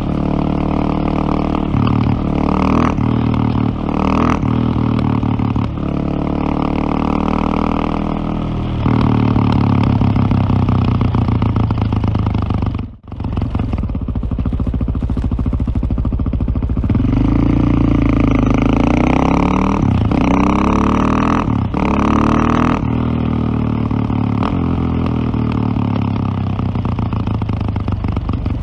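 Single-cylinder KTM motorcycle engine under way, running steadily and then revving up and down in pitch from about a third of the way in as the rider accelerates and shifts. The sound drops out sharply for a moment near the middle.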